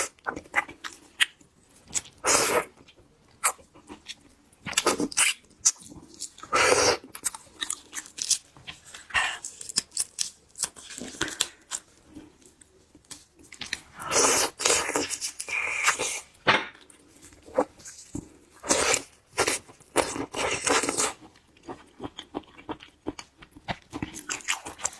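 Close-miked mouth sounds of eating shrimp: wet chewing, slurping and crunching in irregular bursts.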